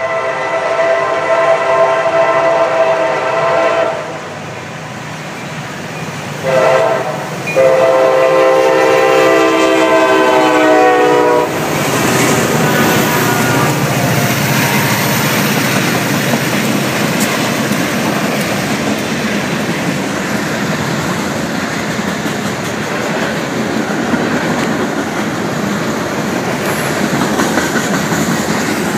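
CSX freight train's multi-note locomotive horn sounds a long blast, a short one and another long one for a grade crossing. From about twelve seconds in, the locomotives' diesel engines and the freight cars' wheels roll past with steady noise.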